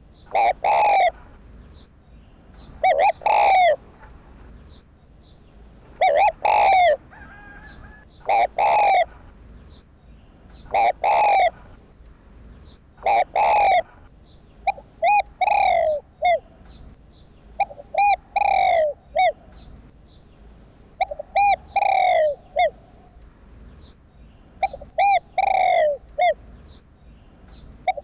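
Spotted dove cooing: a phrase of two or three coo notes, repeated about every two and a half seconds.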